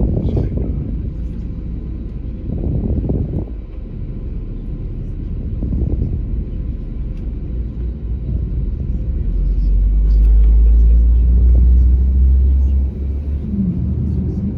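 Low, steady rumble inside the cabin of an Airbus A321neo airliner, with a few brief swells early on and a louder, deeper stretch from about ten seconds in that drops back shortly before the end.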